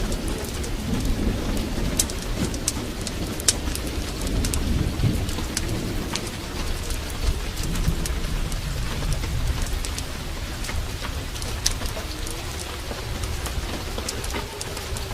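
Heavy downpour of rain, with a low rumble underneath and many sharp ticks scattered through it.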